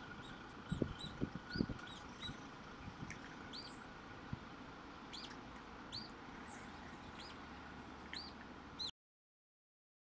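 Small birds chirping: short, high chirps scattered through, with a few low thumps in the first two seconds. The sound cuts off suddenly about nine seconds in.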